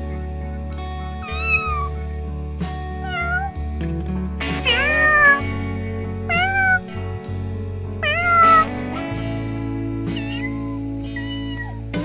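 Domestic cats meowing over steady background music: a string of about seven short rising-and-falling meows, the loudest about five and eight seconds in.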